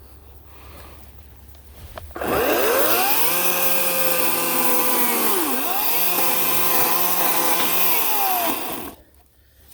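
Ryobi 18-inch battery-powered electric chainsaw spinning up about two seconds in and running at a steady high whine through birch wood. Its pitch dips sharply once midway and climbs back, then winds down and stops shortly before the end.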